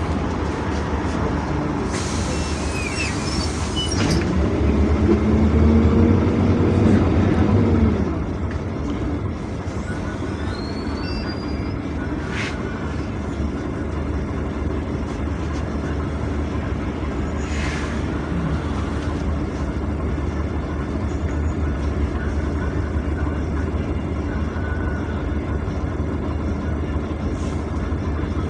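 Interior of a PAZ-422320-04 Citymax 9 city bus on the move: a steady low engine and road drone. About two seconds in there is a short hiss of air from the air brakes. The engine then grows louder for about four seconds, with a whine that rises and then falls, as the bus accelerates, before settling back to a steady drone.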